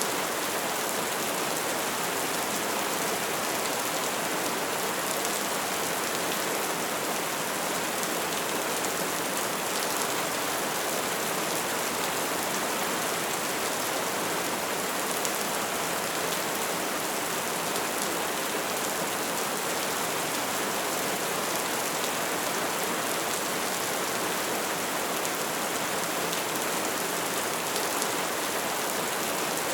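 Wood fire burning, with a steady hiss and dense fine crackling that keeps up evenly throughout.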